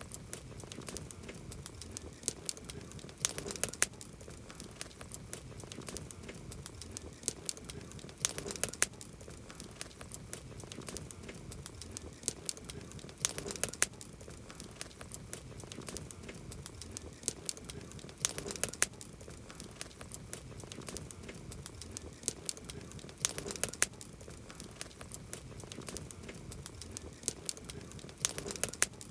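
Wood campfire crackling steadily, with sharp pops and snaps over a soft hiss and louder clusters of pops about every five seconds.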